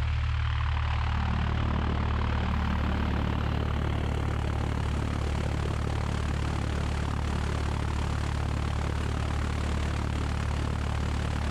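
Cessna 172's four-cylinder Lycoming piston engine and propeller idling on the ground, a steady low drone.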